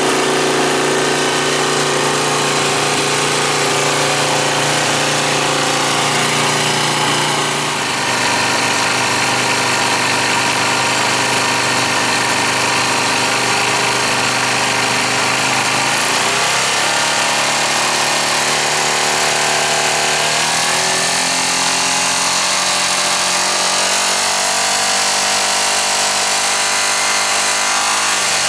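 Suzuki Grasstracker's single-cylinder engine running through an aftermarket muffler, mostly at a steady idle. The pitch steps down about seven seconds in, then the revs rise briefly around the middle, again about twenty seconds in, and once more at the end.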